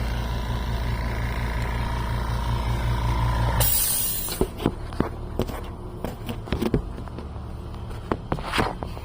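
A motor running steadily with a low pulsing hum and a thin whine, which stops abruptly about three and a half seconds in with a brief hiss. Scattered clicks and knocks follow.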